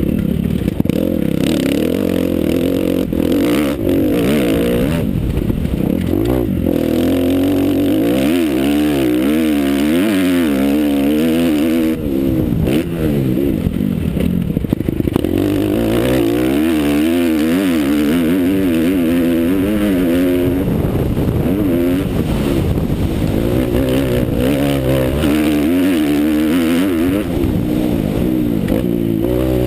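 Motocross bike engine under hard riding, its pitch rising and falling over and over as the throttle is opened and shut.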